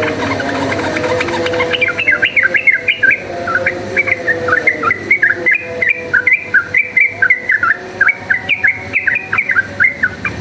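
Yellow-vented bulbul singing a fast, chattering string of short chirped notes that rise and fall, starting about two seconds in, the 'cuk cuk uplik uplik' song of a bird in full song. A steady low hum runs underneath.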